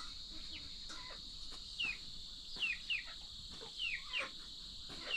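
Birds chirping: several short falling chirps at irregular intervals over a steady high-pitched hiss.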